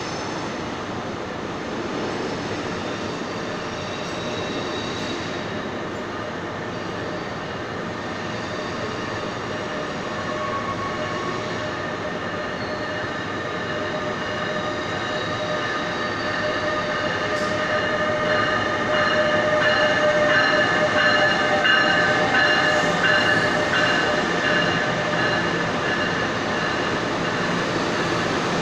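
A commuter train with double-deck coaches pulls in along an underground station platform. It rumbles and grows louder as it nears, loudest about twenty seconds in as the coaches pass. A steady whine of several tones rises with it.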